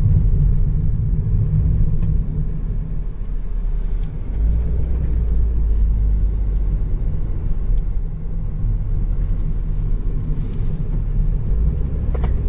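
Steady low rumble of a car's engine and tyres on the road, heard from inside the cabin while driving; the deepest part of the rumble grows stronger about four seconds in.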